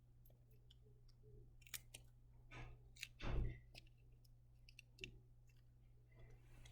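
Faint clicks and rustling of paper craft pieces being handled, with one louder rustle about three seconds in, over a steady low electrical hum.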